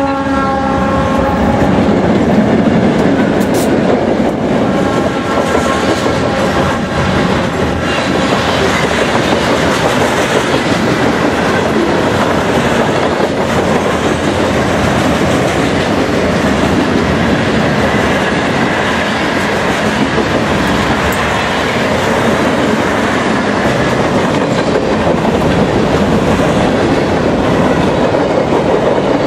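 Loaded freight train rolling past at speed, a steady, loud noise of wheels and cars over the rough, jointed track and road crossings. The lead locomotive's horn trails off in the first second as the last units of a five-locomotive consist go by.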